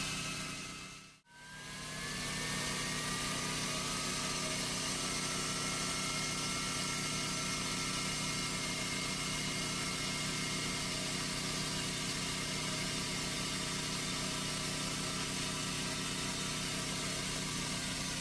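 Small engine idling steadily; the sound dips out briefly about a second in, then comes back.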